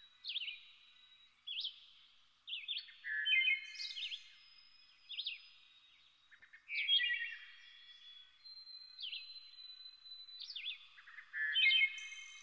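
Songbirds singing: short chirps, quick downslurred notes and rapid trills in phrases every second or two.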